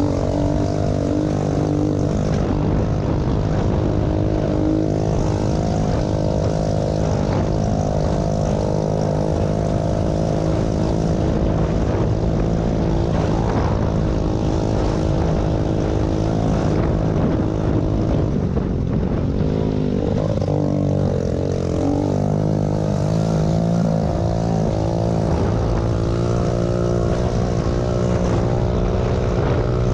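Small pit bike engine running hard at fairly steady high revs, its pitch wavering up and down as the throttle is worked.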